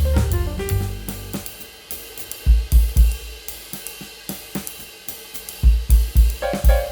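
Background music in a drum break: hi-hat and cymbal ticks over groups of heavy kick-drum beats, the melody dropping out about a second and a half in and coming back near the end.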